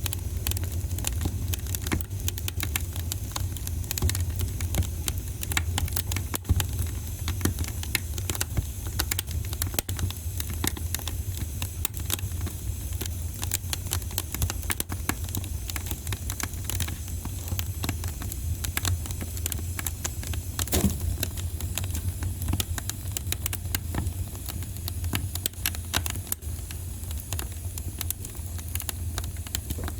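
Wood fire burning in a fireplace, crackling with dense, irregular small pops and snaps over a steady low rumble.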